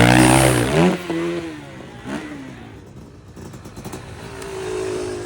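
Motorcycle engine revving loudly for about the first second, its pitch rising and then dropping, before fading away. A fainter engine note comes back near the end.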